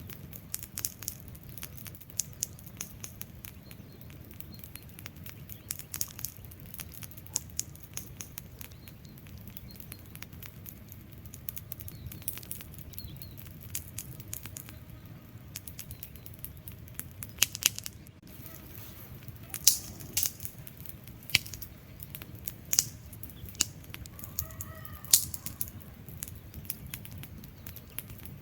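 Wood fire crackling: a steady low rumble of burning with scattered sharp pops and crackles. The loudest pops come in the second half.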